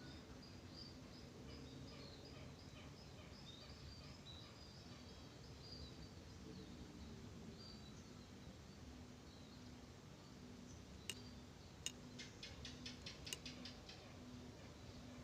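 Faint rice-field ambience of birds and insects: rapid high chirps for the first few seconds, then a low pulsing call repeating a little more than once a second, with a cluster of sharp clicks near the end.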